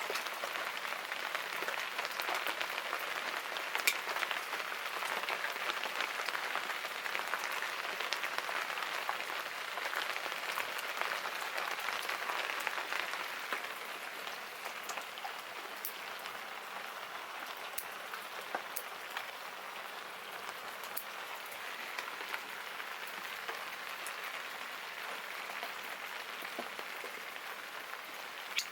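Steady rain falling, a little heavier in the first half and easing slightly about halfway through, with scattered sharp drips and taps.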